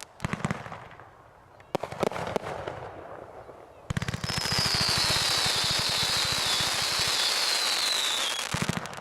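Consumer fireworks going off: a few sharp bangs in the first couple of seconds, then from about four seconds in a dense run of crackling, with a high whistle that falls slowly in pitch and stops about eight and a half seconds in.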